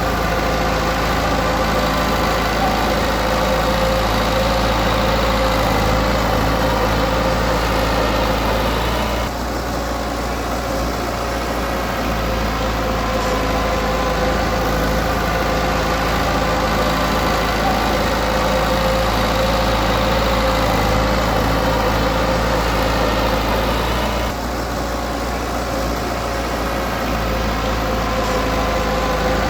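Heavy-equipment diesel engine running steadily, easing off briefly about a third of the way in and again near the end before picking back up.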